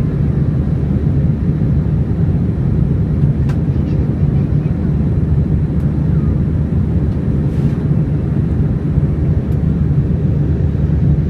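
Steady low roar of an Airbus A321's jet engines and rushing air, heard from inside the passenger cabin during the climb after takeoff. A few faint clicks sound over it.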